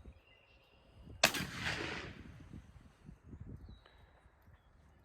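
A single sharp gunshot, its rolling echo fading away over about a second.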